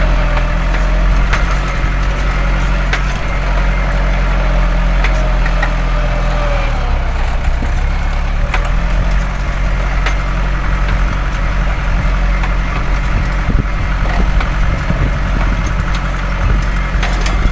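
Mahindra 575 DI tractor's four-cylinder diesel engine running steadily while pulling a nine-tine cultivator through a field, with scattered clicks and rattles over it. The engine note shifts lower about six or seven seconds in.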